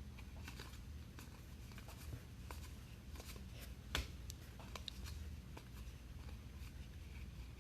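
Baseball trading cards being handled and flipped through, with faint scattered light clicks and rustles and one sharper click about four seconds in, over a low steady hum.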